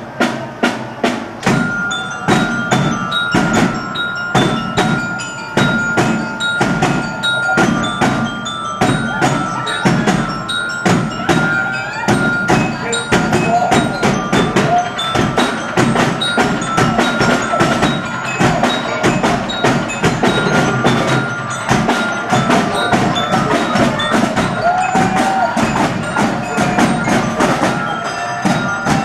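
Parade band music: a steady run of sharp percussion strikes, about two or three a second, over a held high note.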